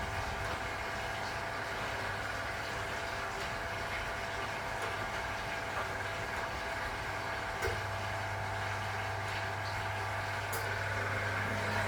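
1961 AEG Lavamat Noris washing machine running with a steady electrical hum and a cluster of steady whining tones. A click comes about two thirds of the way in, after which the hum grows stronger, and a second, higher hum joins near the end.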